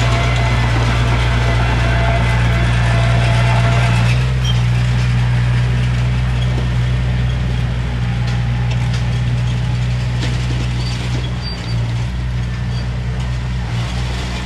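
Heavy construction machine's diesel engine running steadily with a low drone. A higher whine over the engine stops about four seconds in.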